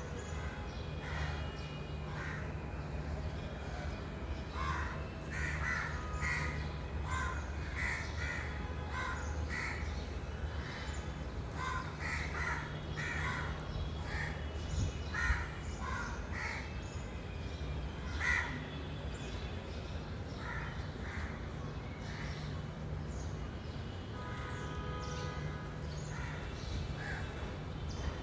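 Crows cawing over and over, short harsh calls at irregular intervals, over a steady low hum.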